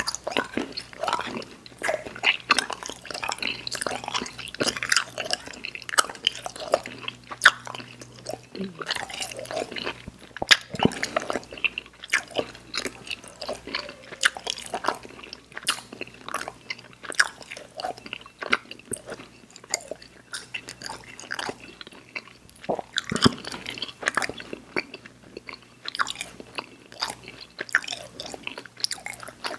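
Close-miked mouth sounds of someone chewing chewy sour candy: a continuous run of irregular wet smacks and clicks.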